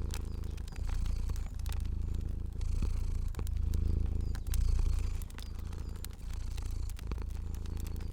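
Domestic cat purring, the low rumble swelling and easing about once a second with each breath. Faint pops of a crackling fire sound throughout.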